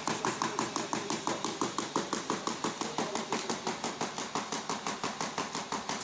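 Wood slat-making machine running with a fast, even clacking of its cutting action, about seven sharp strikes a second.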